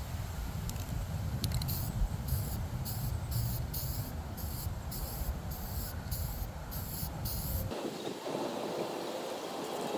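Aerosol spray paint can hissing in about a dozen short bursts, roughly two a second, with wind rumbling on the microphone. The wind rumble cuts off abruptly near the end.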